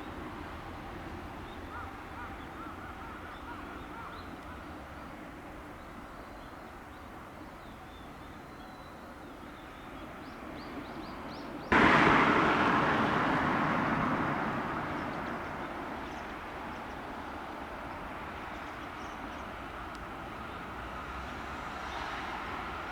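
Quiet outdoor ambience with a few faint bird chirps. About halfway through, a sudden loud rush of a train going past close by fades away over a few seconds.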